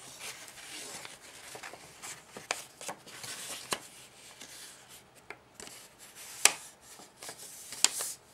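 A sheet of origami paper being folded by hand: soft rustling and rubbing, with several sharp, crisp clicks as creases are pressed down, the loudest about six and a half seconds in.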